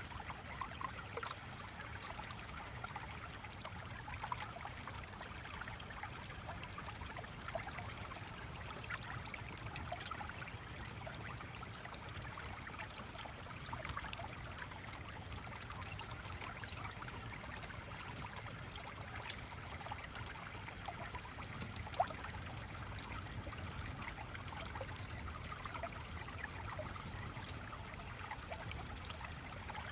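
Stream of water trickling over stones, steady and even, with scattered faint ticks and one sharper click about two-thirds of the way through.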